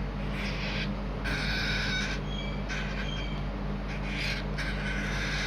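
Cockatiel chicks begging at feeding time: a series of harsh, raspy calls, about one a second, over a steady low hum.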